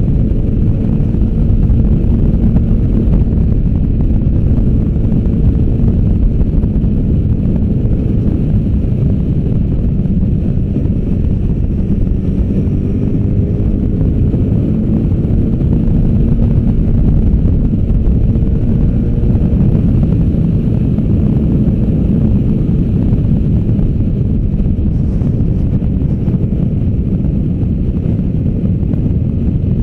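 Adventure motorcycle's V-twin engine running at steady road speed, its pitch drifting gently up and down, under heavy wind noise on the microphone.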